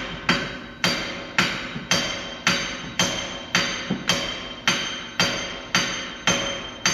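Hammer striking metal in steady, regular blows, nearly two a second, each leaving a ringing tone. This fits knocking the old rear wheel bearing or hub assembly loose during a wheel bearing replacement.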